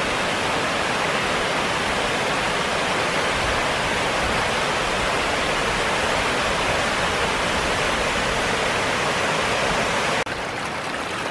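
Waterfall water rushing in a steady, loud roar. About ten seconds in it drops suddenly to a quieter, thinner water sound.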